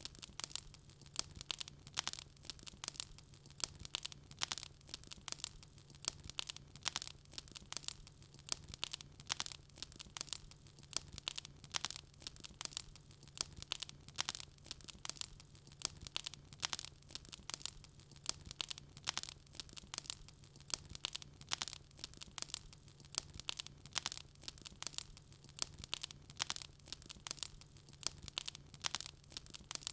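Wood burning in a fireplace, crackling steadily with many sharp pops and snaps several times a second.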